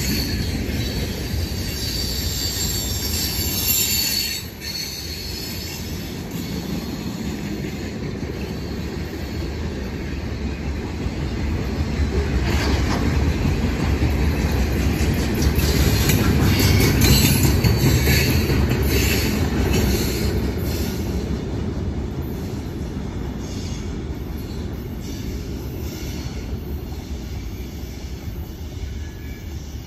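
Freight cars of a long mixed manifest train rolling past with a steady low rumble, wheel squeal early on and scattered wheel clacks. It grows loudest about halfway through, then fades as the train moves away.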